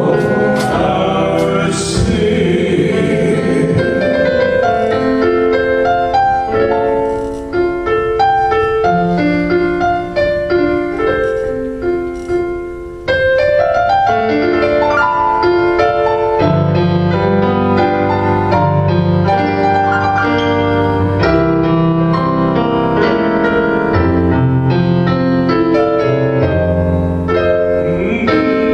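Piano playing a hymn accompaniment on its own, with a singer's last held note fading out in the first couple of seconds. The playing turns to fuller, heavier chords about halfway through.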